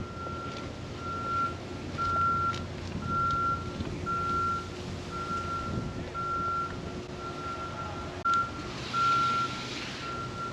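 An electronic beeper sounding a single steady tone in regular pulses, about one beep a second, over a low background hum.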